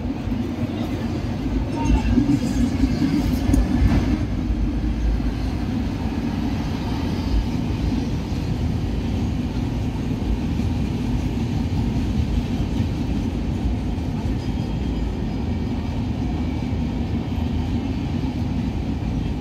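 A passenger train hauled by an electric locomotive crossing a long rail bridge, heard as a steady low rumble. It is louder for a couple of seconds near the start, with a few short knocks, and then stays even.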